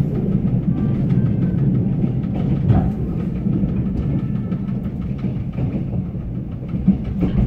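Mugunghwa passenger train running, heard from inside the carriage: a steady low rumble of wheels on the track, with two brief louder knocks.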